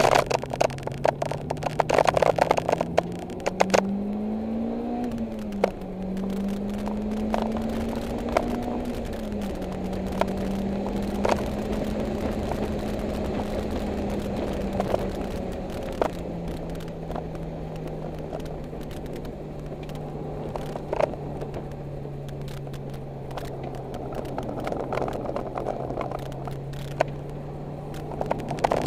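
Engine of a 2011 Mitsubishi Lancer Evolution X GSR, a turbocharged 2.0-litre four-cylinder, heard from inside the cabin while it is driven at track pace. Its pitch climbs and drops back twice in the first ten seconds, holds steady, then settles lower about sixteen seconds in. Scattered clicks and rattles sound over it, busiest early on and near the end.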